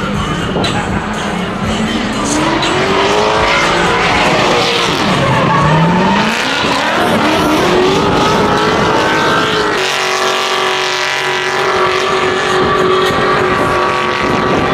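A car's engine revving up and down during a burnout, with tires squealing; about ten seconds in it is held at high, steady revs.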